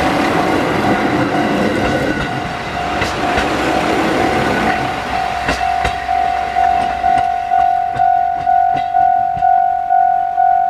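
A Japanese level-crossing warning bell rings steadily as a four-car set of diesel railcars, KiHa 150s coupled with KiHa 40s, runs over the crossing, its wheels clacking over the rail joints. After about six seconds the train noise falls away, leaving the crossing bell ringing alone about twice a second.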